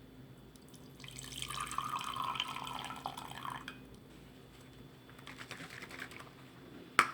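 Hot coffee pouring from a pour-over coffee maker's carafe into a cup for about two and a half seconds. A few faint clicks follow, then a sharp clink near the end.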